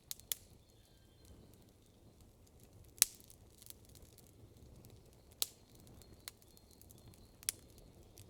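Campfire wood crackling: a handful of sharp, separate pops over a faint steady hiss, the loudest about three seconds in.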